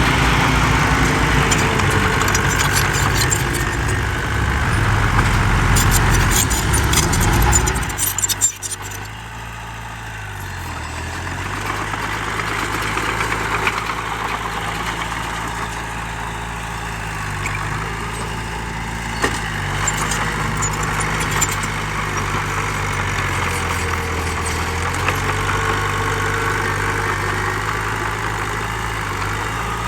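Heavy diesel earthmoving machinery running loud for about eight seconds, with rattling clicks. Then the sound drops away and the engine runs on more quietly, its pitch rising and falling as it revs up and down.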